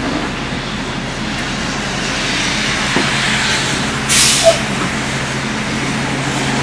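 City bus's diesel engine running steadily with a low hum, and a short hiss of compressed air from its air brakes about four seconds in.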